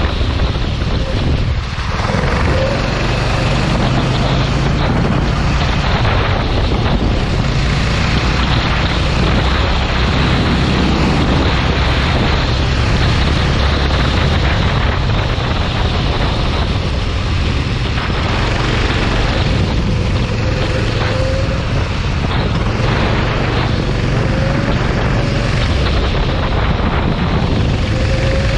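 Go-kart engine running at speed, steady throughout, under heavy wind noise on the microphone.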